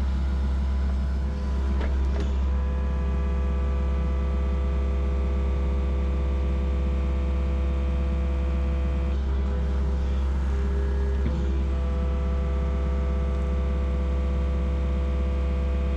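Yanmar SV40 mini excavator's diesel engine running steadily, with a whine over it whose pitch shifts a couple of times as the hydraulics work.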